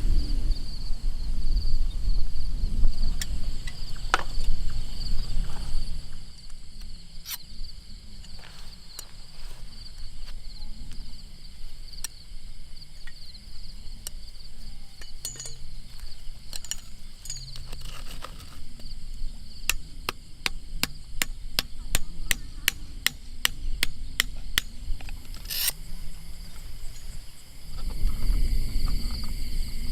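Sharp knocks, a run of about a dozen at roughly two a second in the second half, over a steady high insect drone. A low rumbling noise fills the first few seconds and returns near the end.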